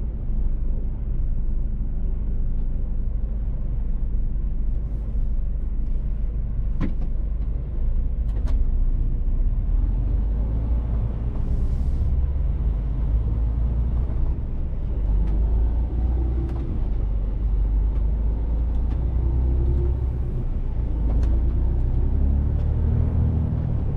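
Mercedes-Benz Actros truck driving, its diesel engine running over a heavy low road rumble, with the engine note rising and falling in the second half. A couple of sharp clicks come about seven and eight seconds in, and a short high hiss comes about twelve seconds in.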